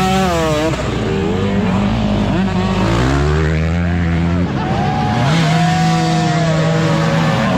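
Motocross dirt bike engines revving in the mud. The pitch rises and falls quickly in the first second, then the revs are held steady for a second or two at a time.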